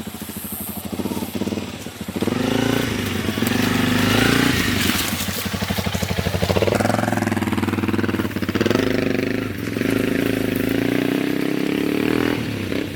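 Honda CRF300 Rally's single-cylinder engine on the move, its pitch rising and falling several times as the rider opens and closes the throttle.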